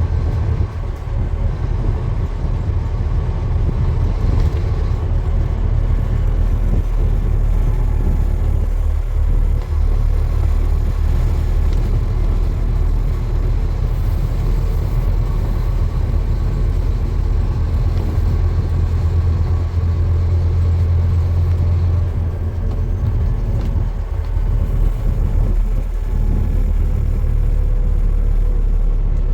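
Steady low rumble of a moving vehicle, with an engine-like hum underneath that holds throughout.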